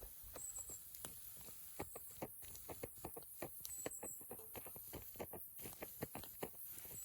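Small wood fire crackling in a Firebox stove: faint, irregular sharp pops several times a second.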